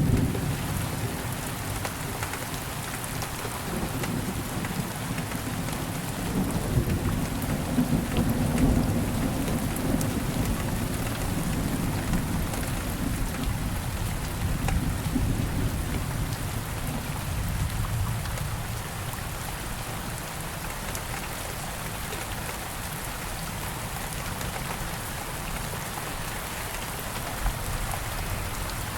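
Steady rain falling, with individual drops ticking, under a low rumble of thunder that is loudest at the start and dies away over the first half.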